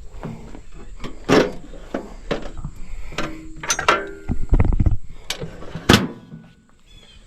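Metal clanks and knocks from the toe board and log dogs of a Woodland Mills HM130MAX sawmill being worked by hand to set a timber. The knocks are irregular, with a few ringing metal clanks in the middle, then a heavy thud and a sharp knock in the second half.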